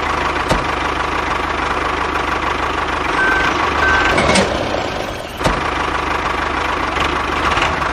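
Mini diesel engine running steadily with a rattling, knocking clatter; two short high beeps sound a little after three seconds in.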